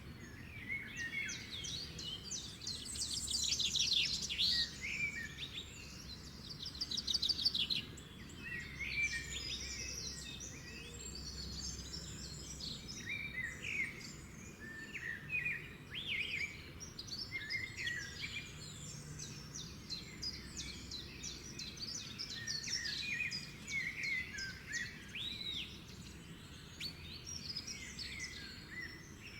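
Several birds singing and calling at once, a dense chorus of short chirps and whistles with a couple of fast trills in the first seconds, over a faint steady background hiss.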